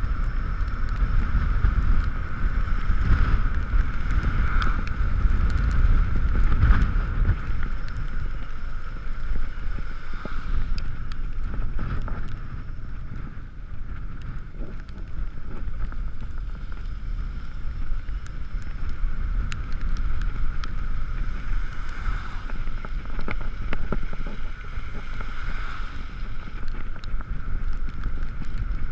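Wind rumbling over the helmet camera's microphone and wet-road noise from an Ekoway ML5000 electric scooter riding in the rain, with a steady high whine from its motor and scattered small clicks.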